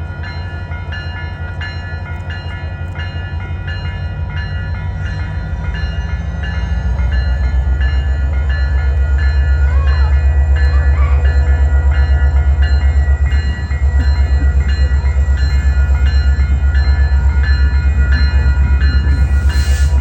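Diesel locomotives of the CPKC Holiday Train approaching and then passing close, their engines running with a deep, fast-pulsing rumble that grows louder over the first several seconds. A steady repeating chime-like tone, about two strokes a second, runs above the rumble.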